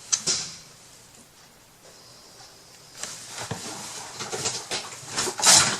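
Light clicks and rustling of small craft materials and trims being handled, with a louder rustle near the end.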